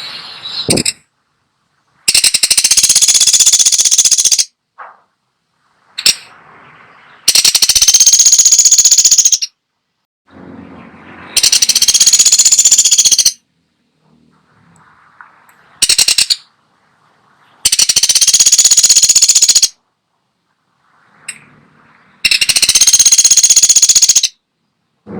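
Woodpecker giving a loud, rapid rattling call, repeated in about five bursts of roughly two seconds each, with a few shorter rattles in between.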